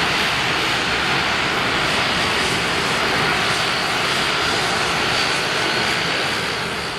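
Bombardier Dash 8-402 (Q400)'s two Pratt & Whitney Canada PW150A turboprop engines running at takeoff power: a loud, steady noise with a faint whine in it, easing off slightly near the end.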